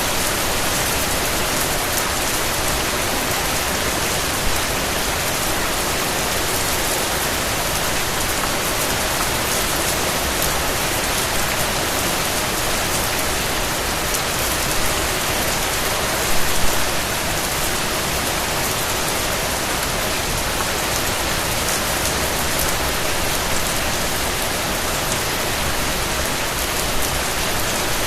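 Steady rain falling and pattering on a surface, with a few slightly louder drips about sixteen seconds in.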